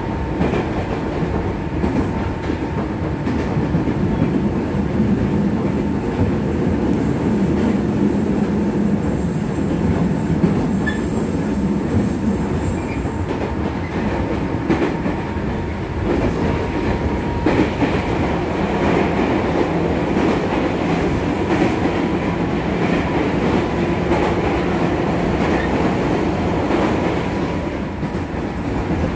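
Running noise heard inside a 205 series 3100 subseries electric train's motor car (MoHa 205-3116) under way: a steady rumble of wheels and running gear with a steady hum, and occasional clicks over rail joints. A faint high whine comes in for a few seconds near the middle.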